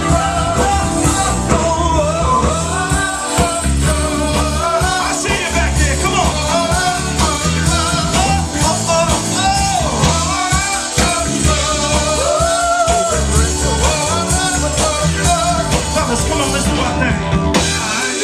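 Live soul band playing: a sung melody over a steady bass line and drums, loud and continuous.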